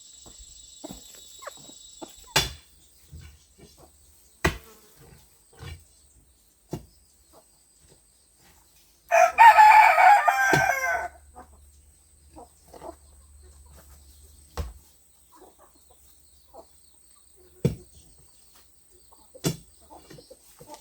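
A rooster crows once, a single call of about two seconds near the middle and the loudest sound here. Scattered sharp knocks come before and after it, and a steady high insect buzz sounds at first and stops after about two seconds.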